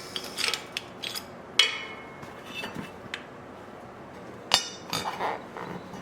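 Metal tools clinking and knocking against metal parts: a series of sharp, irregular strikes, a few with a short metallic ring.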